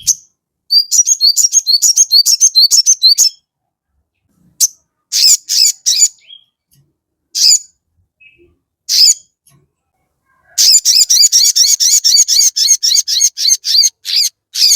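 Sogon bird singing: a fast run of sharp, high chirps for the first few seconds, then scattered single calls and short pairs, and from about ten seconds in a long rapid series of chirps at about six or seven a second. It is a bird in full, excited song, the kind of recording kept to lure other sogon birds into answering.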